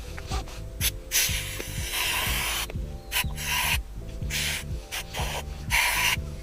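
Five bursts of rubbing, the longest lasting nearly two seconds, over background music with a steady beat.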